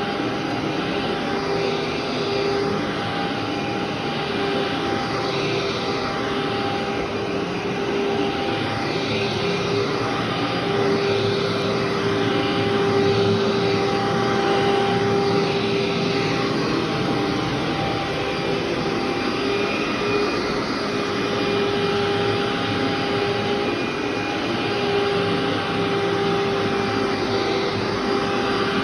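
Vacuum cleaner running steadily while vacuuming a carpet: a continuous motor whine over the rush of suction.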